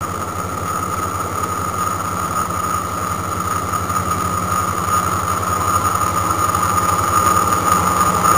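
An approaching BNSF coal train heard from beside the rail: a steady low diesel hum with a fast even pulse under it and a steady high ringing tone, slowly growing louder as the train nears.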